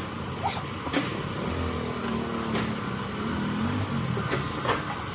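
A passing motor vehicle's engine, its pitch rising and falling, over steady background noise, with a few short sharp knocks.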